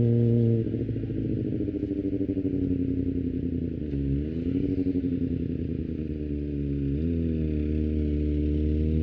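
Kawasaki ZX-25R 250cc inline-four engine with an Akrapovic exhaust, heard while riding. About half a second in, the steady note drops and turns uneven and pulsing as the throttle eases. The pitch dips and comes back up around four seconds in, and near seven seconds the engine settles into a steady, even note again.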